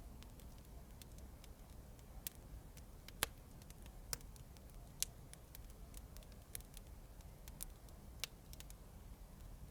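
Faint fireplace crackling: irregular sharp pops and snaps over a low steady rumble, with a few louder cracks about three, four and five seconds in and again near eight seconds.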